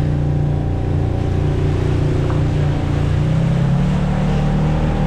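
Off-road vehicle engine running, its pitch stepping up about three seconds in as it pulls harder.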